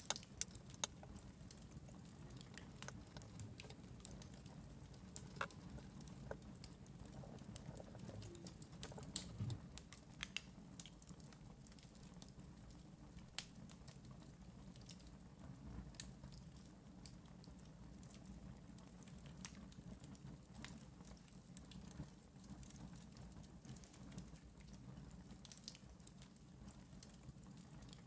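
Faint wood fire crackling: sparse small snaps over a low steady rumble.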